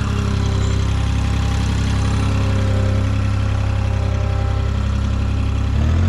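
Engine idling steadily with a deep hum; its note shifts just before the end as the engine speed changes.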